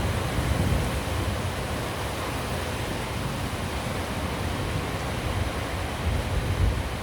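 Steady rain, an even hiss, over a low rumble that swells and fades.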